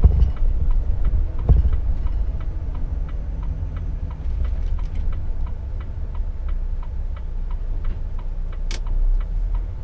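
Turn-signal indicator ticking steadily inside a Volvo truck cab, about three clicks a second, over the low rumble of the engine. There is a single thump about one and a half seconds in.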